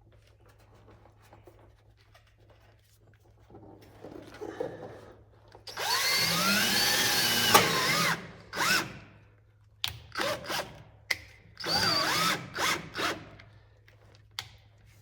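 Power drill running with metal bit work: quiet at first, then one long run of about two seconds with a wavering motor pitch, followed by several short bursts on the trigger.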